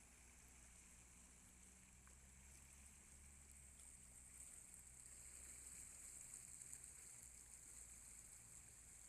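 Near silence: a faint steady low hum with a faint high hiss that swells slightly about halfway through.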